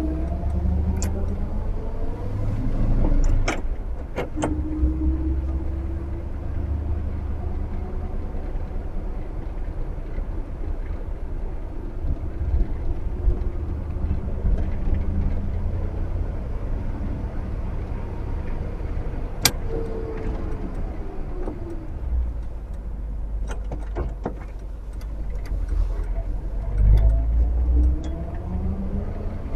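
1959 Chevrolet Bel Air's 348 V8 running on the road, its pitch rising as it speeds up near the start and again near the end, and falling as it slows about two-thirds of the way through. A steady low rumble runs under it all, with a few sharp clicks.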